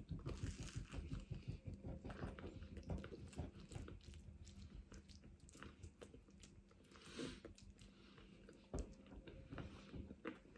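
A person biting into and chewing crusty tomato and garlic bread, with soft crunching and many small mouth clicks.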